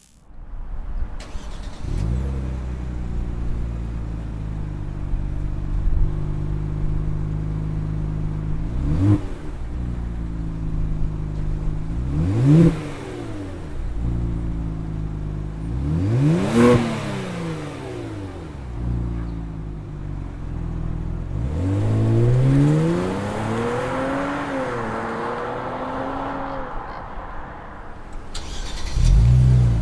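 2018 Kia Stinger GT's twin-turbo V6 through a Thermal R&D catback exhaust, starting up about a second in and settling to an idle. It is then revved three times in quick, short blips, and later held at higher revs for several seconds before dropping back.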